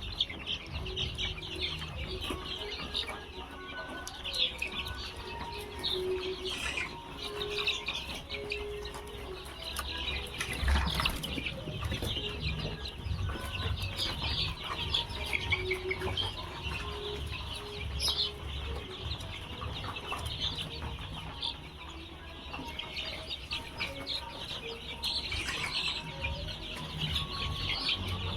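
Desi chickens and chicks, with a constant stream of short high peeps and chirps and occasional low clucks.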